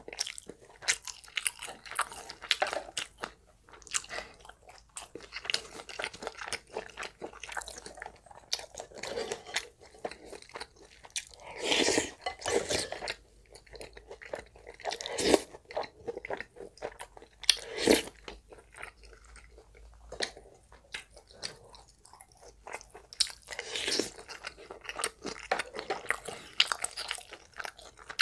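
Close-miked eating: a person chewing and crunching mouthfuls of Korean spicy stir-fried pork and home side dishes, with many small wet clicks and crunches. A longer slurp of broth from a spoon comes about halfway through.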